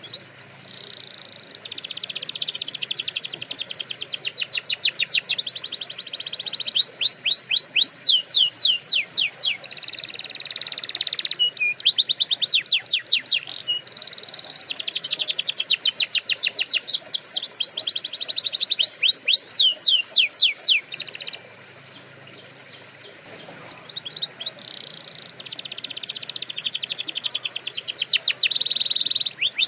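Domestic canary singing: long phrases of rapid trills and fast runs of repeated sweeping notes, broken by short pauses, with a quieter gap of a few seconds about two-thirds of the way through.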